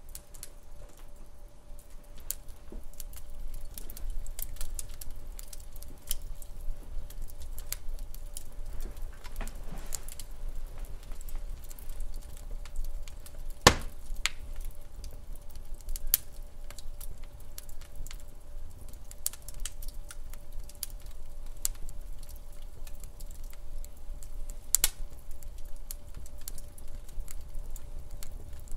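Wood fire crackling in a fireplace: irregular sharp snaps and pops over a low steady rumble, with one loud pop about halfway through.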